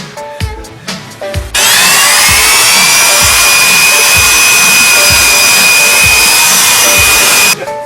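A power tool spins up with a rising whine about a second and a half in, runs loud and steady for about six seconds, then stops abruptly. Background music with a steady beat plays underneath.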